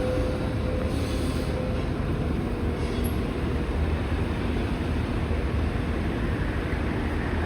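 Heavy demolition machinery running: a steady low rumble with no breaks, with a faint high whine that fades out in the first couple of seconds.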